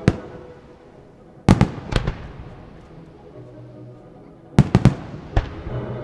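Aerial fireworks shells bursting in sharp bangs that echo away. There is one at the start, a quick group of three about a second and a half in, another group of three near the end, and a final one. Faint music plays underneath.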